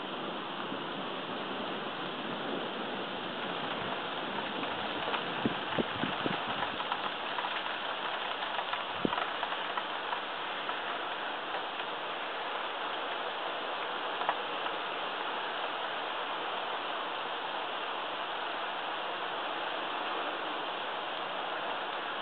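Steady rain in a thunderstorm, an even hiss, with a few sharper taps between about five and nine seconds in and another near fourteen.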